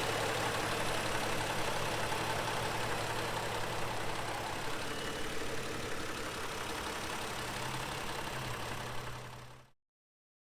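The 2020 Toyota Sienna's 3.5-litre V6 engine running with a steady low hum, fading out about nine and a half seconds in.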